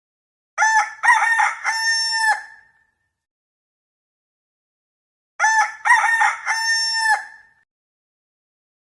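A rooster crowing twice, each cock-a-doodle-doo lasting about two seconds and ending on a long held note, the second crow about five seconds after the first.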